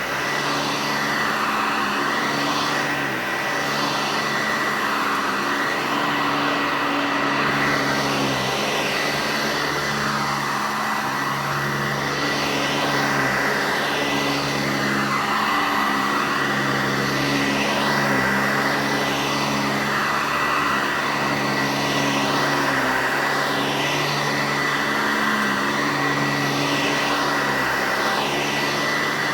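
Eureka C2094 Type G commercial upright vacuum running steadily with a high motor whine, its sound swelling and easing every couple of seconds.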